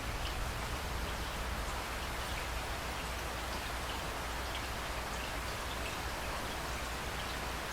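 Steady rain falling, with scattered individual drops ticking on hard surfaces over a low, steady rumble.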